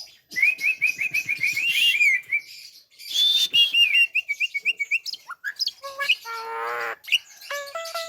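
Javan myna (jalak kebo) calling: two rapid runs of short, sharp chirps with a brief pause between, then varied whistled notes and a quick series of evenly repeated pitched calls near the end.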